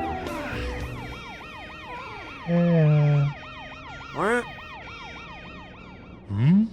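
Cartoon police siren yelping, its pitch rising and falling about three times a second. Louder pitched sounds break in over it: a held horn-like tone about two and a half seconds in, a short rising whoop near four seconds, and another rising glide near the end.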